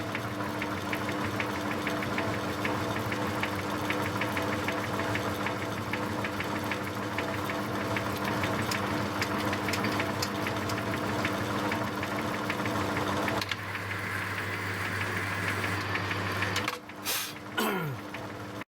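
Metalworking lathe running under power on a screw-cutting pass: a steady motor hum with fast, fine ticking from the gear train. About 13 seconds in the sound changes and thins out, and near the end a few knocks and a falling tone follow as it slows.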